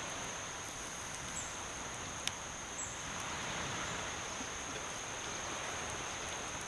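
Outdoor ambience: a steady high insect drone over an even rushing background noise, with a single sharp click a little over two seconds in.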